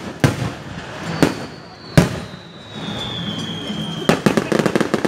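Fireworks going off: three sharp bangs in the first two seconds, the loudest about two seconds in, and a whistle falling slowly in pitch for about three seconds. Near the end comes a quick string of crackling pops.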